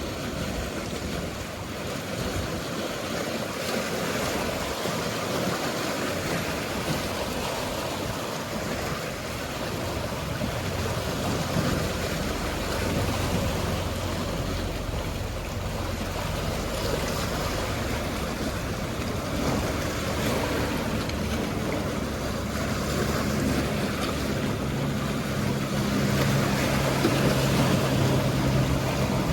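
Mediterranean sea waves washing steadily, with wind on the microphone. A boat's engine hum comes in about a third of the way through and grows louder near the end as the boat draws closer.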